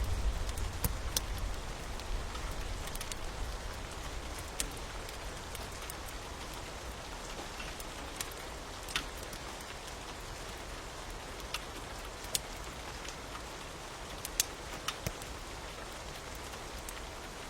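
Rain falling steadily, with scattered sharp crackles and pops of a wood fire over it. A low rumble fades away over the first few seconds.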